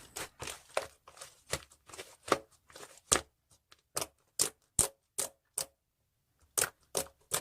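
An irregular run of short, sharp typing clicks, a few per second, with a brief pause near the end.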